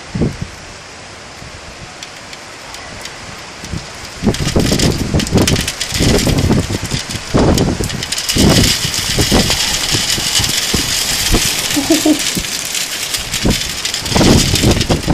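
Heavy rain falling with a steady hiss, growing much louder about four seconds in, with repeated gusts of wind buffeting the microphone.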